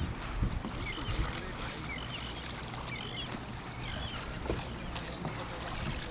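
Kayak on open water: a steady low rumble of water and wind, with short high chirps that recur about once a second.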